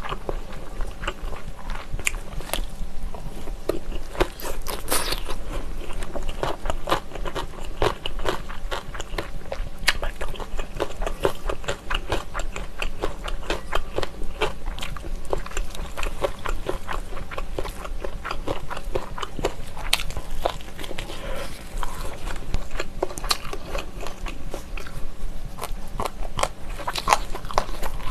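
Close-miked chewing and mouth sounds of someone eating jjolmyeon, chewy spicy cold noodles with shredded vegetables: a steady stream of many small irregular clicks and crackles.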